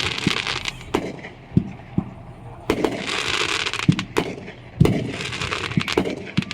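Fireworks and firecrackers going off: sharp bangs at irregular intervals, with a stretch of dense crackling about three seconds in.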